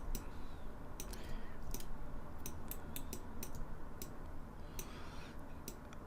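Computer mouse clicks and keyboard key presses, short, sharp and irregular, about two or three a second, over a low steady background hum.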